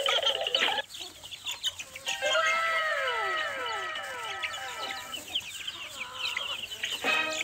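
Young white chickens peeping and clucking as they are handled. About two seconds in, a run of overlapping falling tones sounds for about three seconds.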